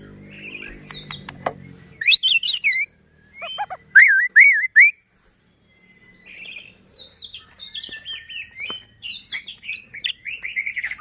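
White-rumped shama (murai batu) singing: loud whistled notes that swoop up and down, a short pause about halfway, then a quick run of varied chattering and whistled phrases.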